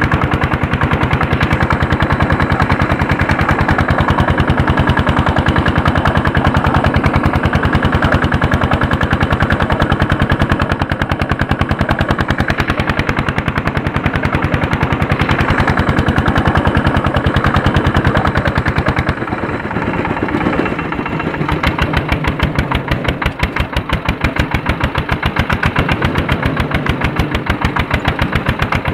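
Andoria S-231 single-cylinder diesel engine running steadily, a fast, even chugging of exhaust beats, while harrowing. About 19 seconds in it briefly drops in level, then runs on with more distinct, separate beats.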